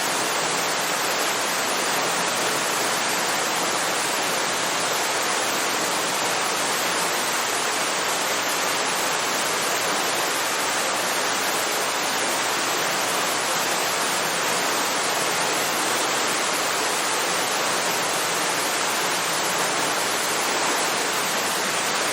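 Waterfall: a steady, even rush of falling water with no other sound.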